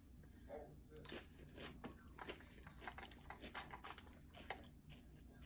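Faint chewing of Doritos nachos, with irregular short crunches and mouth clicks.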